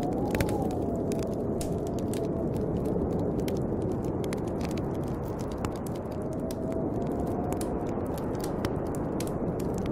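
Snowstorm wind blowing steadily, with a whistling howl that rises and falls twice. A wood fire crackles and pops over it, with many sharp snaps.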